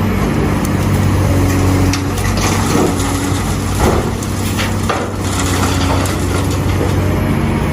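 Excavator's diesel engine running steadily, with crunching and scraping from the bucket digging, loudest in a few sharp crunches in the middle.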